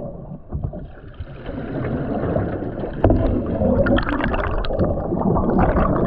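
Water gurgling and splashing close to the microphone, muffled at first, then louder with several sharp knocks and splashes from about three seconds in.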